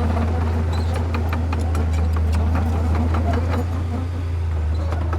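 Heavy diesel earthmoving machine running with a steady low drone, with frequent sharp clanks and rattles over it.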